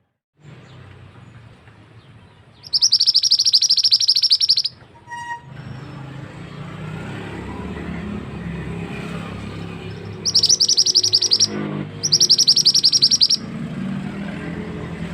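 Mantenan bird singing in three loud bursts of rapid, high, chattering trills, each one to two seconds long, over a steady background of running water.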